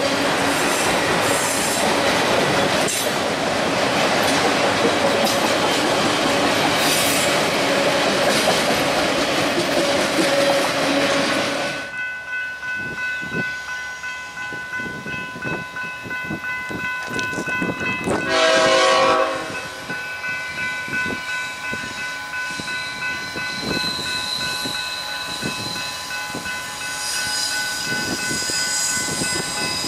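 Freight train of autorack cars rolling past with a loud, steady rumble of wheels on rail. About twelve seconds in the sound cuts to a grade crossing whose warning bell rings steadily, and a little later a BNSF diesel locomotive's air horn sounds one short blast, followed by the clicks of wheels over rail joints as the train approaches.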